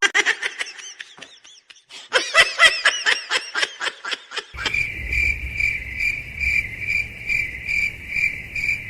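Rapid high chirping notes, then a steady, evenly pulsing insect chirp, a little over two pulses a second, like a cricket.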